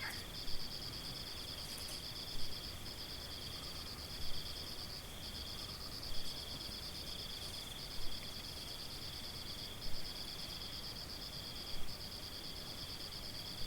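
Insects trilling steadily in two high, buzzy pulsed bands, with short gaps, and a brief louder note recurring about every two seconds.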